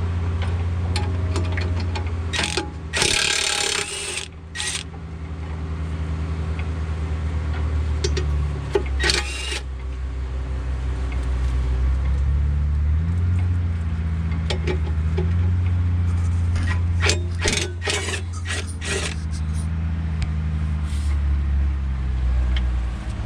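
A diesel engine running steadily at idle, its pitch shifting a little now and then, with several short loud hissing bursts and metallic clicks from the repair work about three seconds in, around nine seconds and again in a cluster near the end.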